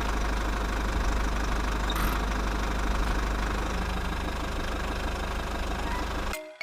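Small engine running steadily with a deep rumble, cutting off abruptly near the end.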